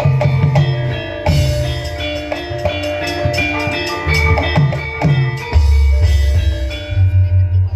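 Live Javanese gamelan music with drums: struck metallic instruments ringing over low drum beats. A deep low stroke comes about five and a half seconds in, and quick low drum pulses follow near the end.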